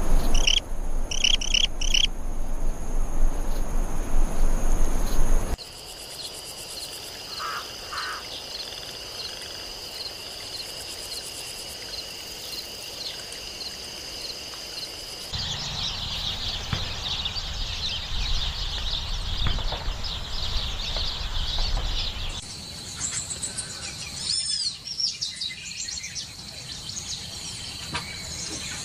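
Small birds chirping and calling in a run of separate nature recordings that change abruptly every several seconds. In the middle stretch a steady, high insect-like trill runs under the chirps. Near the end come high, gliding calls.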